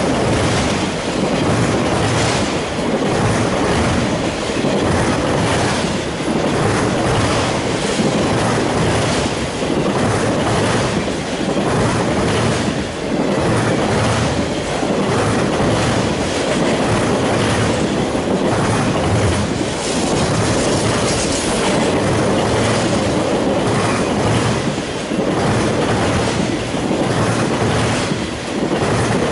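Freight train of autorack cars rolling past at close range: steel wheels clacking and rumbling on the rails, the noise swelling and dipping about every two seconds as car after car goes by.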